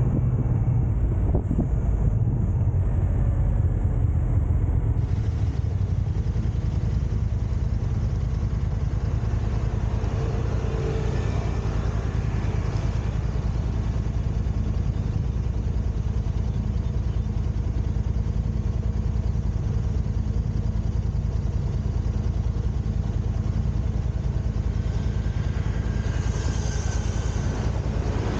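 Steady low rumble of a car being driven: engine and tyre-on-road noise.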